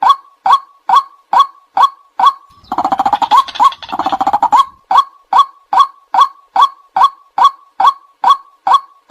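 White-breasted waterhen calling: short, loud 'kwak' notes repeated about two to three times a second, with a fast, dense chattering run for about two seconds partway through before the steady kwak notes resume.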